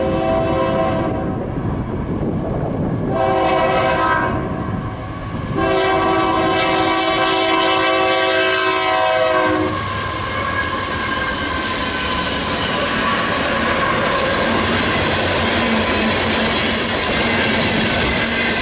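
Union Pacific freight train's locomotive horn blowing for a grade crossing: the end of one blast, a second blast, then a long blast of about four seconds as the train nears. From about ten seconds in the locomotives and then the freight cars pass close by with a loud, steady rush of engine and wheel-on-rail noise.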